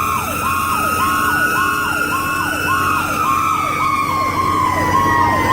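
A fire truck's Federal Q mechanical siren wailing, its pitch slowly rising for the first couple of seconds and then winding down, over an electronic siren sweeping about twice a second, with the truck's engine running underneath.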